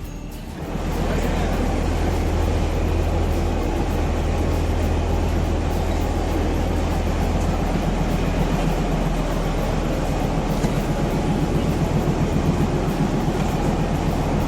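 Darjeeling Himalayan Railway toy train running along its narrow-gauge track: a steady low rumble and hum with rolling noise from the wheels and carriages, setting in about a second in.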